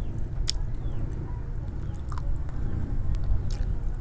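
Close-miked chewing with a few sharp mouth clicks, over a steady low rumble.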